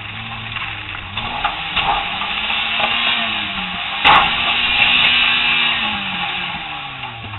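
Stock car engine heard from inside the cabin, its note rising and falling repeatedly as the car is driven hard, over a steady rush of noise. A sharp knock comes about four seconds in.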